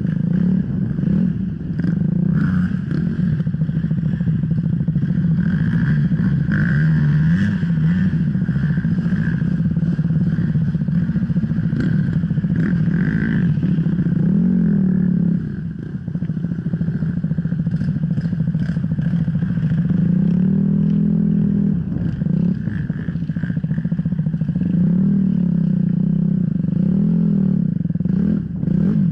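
Off-road enduro motorcycle engine running hard, its revs rising and falling with the throttle, with a brief let-off about halfway through. Clattering and scraping come from the bike working over rough ground.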